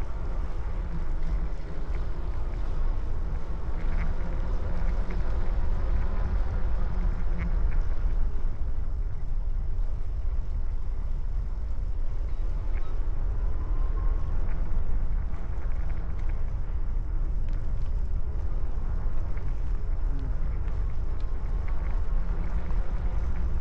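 Wind buffeting the microphone while riding a bicycle: a steady low rumble.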